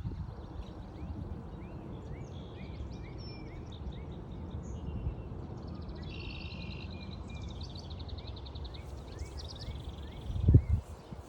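Several songbirds singing at once, one repeating a short rising note over and over among other trills and warbles, over a steady low rumble. A low thud near the end is the loudest sound.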